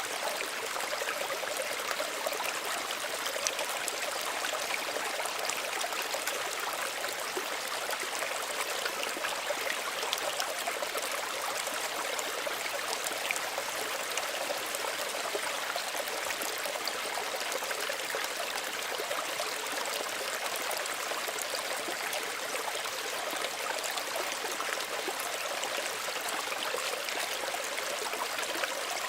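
Small stream running steadily over stones, an even rushing trickle with fine splashes and no change in level.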